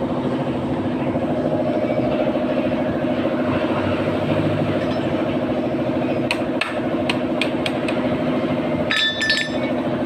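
A steady mechanical hum, like a running engine or machine, with several sharp metal taps about six to eight seconds in and a ringing metal clink near the end, from work on a sheet-metal muffler.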